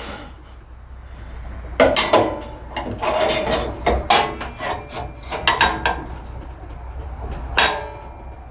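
A series of irregular knocks and clanks, some with a short metallic ring, like tools or parts being handled and set down, over a low steady hum.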